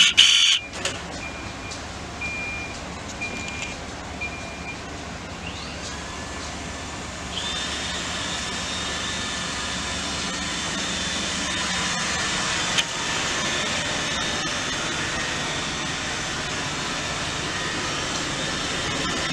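iRobot Roomba 960 robot vacuum playing a short start-up chime. About six seconds later its vacuum motor spins up with a rising whine, then runs steadily with a high whine over a steady rush of suction as it starts cleaning.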